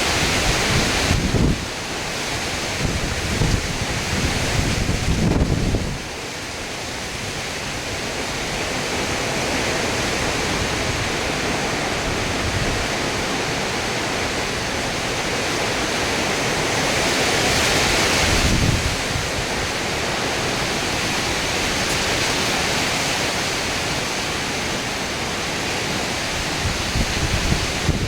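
Hurricane wind and heavy rain rushing steadily, with wind buffeting the microphone in low thumps during the first six seconds and a gust swelling about seventeen seconds in.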